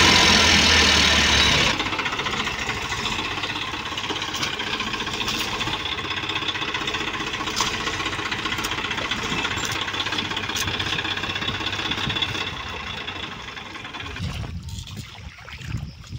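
Tractor diesel engine running hard at high revs, then dropping back to a steadier, lower run about two seconds in, with scattered clicks. It fades over the last few seconds.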